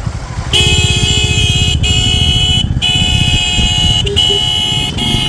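A vehicle horn sounds in long, loud blasts with a few brief breaks, starting about half a second in, over the low running of a motorcycle engine.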